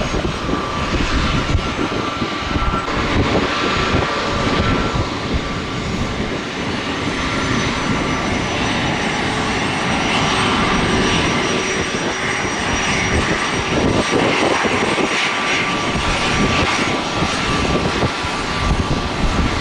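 Jet airliner engines running at high power, a steady whine over a broad rumble, with gusting wind buffeting the microphone.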